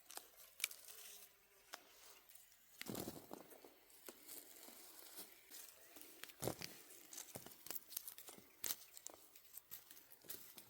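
Faint rustling of leaves with scattered light snaps and clicks, as hands work through the leafy branches of a plum tree; a longer rustle comes about three seconds in.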